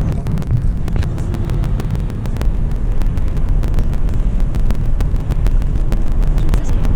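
Car driving at speed, heard inside the cabin: a steady low rumble of road and engine noise.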